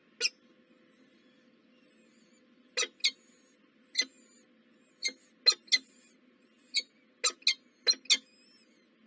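Small birds chirping: about a dozen short, sharp chirps, irregularly spaced and coming closer together in the second half, over a faint steady hum.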